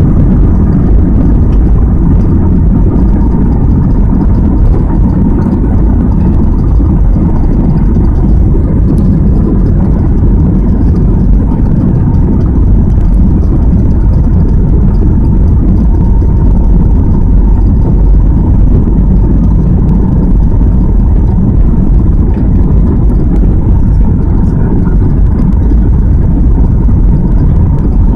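Airbus A320 cabin noise: a loud, steady rumble of jet engines and airflow, with a faint steady tone above it.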